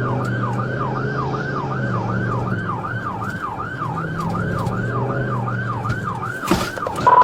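Police cruiser siren in fast yelp mode, rising and falling about three times a second, over the cruiser's engine running during the pursuit. A short burst of noise comes near the end.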